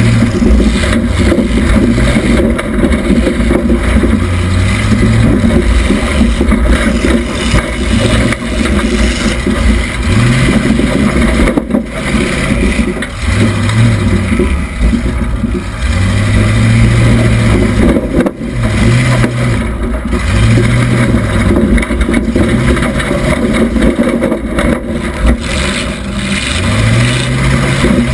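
1976 Oldsmobile Cutlass Supreme demolition derby car's engine, heard from inside the car, revving up and falling back again and again over a constant loud rumble.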